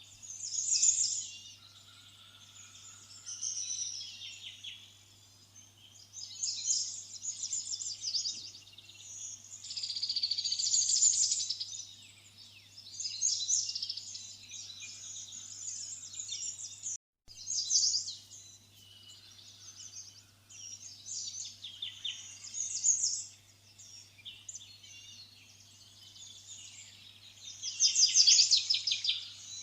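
Small birds chirping and trilling in repeated bursts of a second or two, with short pauses between, over a faint steady low hum.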